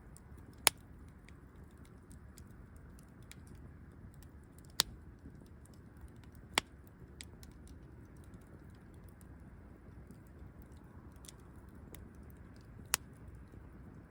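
Wood campfire crackling: scattered small ticks over a low steady hiss, with four sharp loud pops spread through it.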